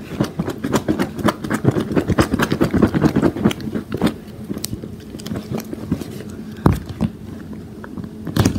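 A lidded container of soapy water with a fidget toy inside being shaken by hand: quick, irregular rattling and knocking, dense for the first few seconds and then thinning out, with a couple of single thumps near the end. The water itself is barely heard.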